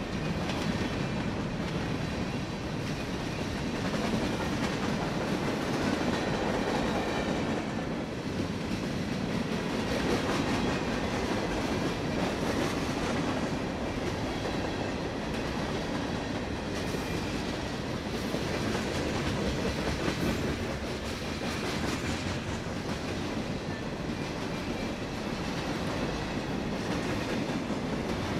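Freight train of covered hopper and open-top cars rolling past at speed: a steady rumble of steel wheels on the rails, with a continual run of wheel clicks.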